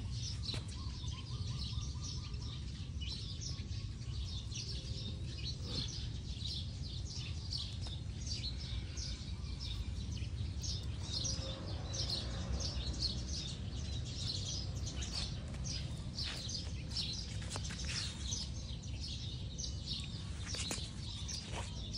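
Small birds chirping, many short high chirps in quick succession, over a steady low rumble of outdoor background noise.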